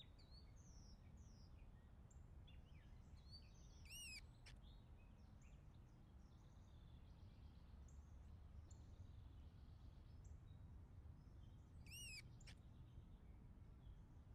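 Faint birds calling over a low background rumble: scattered short high chirps throughout, and two louder arched calls about eight seconds apart.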